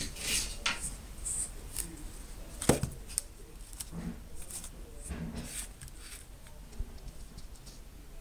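Handling noises: irregular rustles and light clicks, with one sharper knock about three seconds in.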